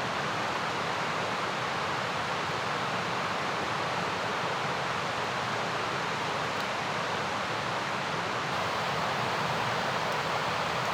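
Mountain river rushing: a steady, even rush of water.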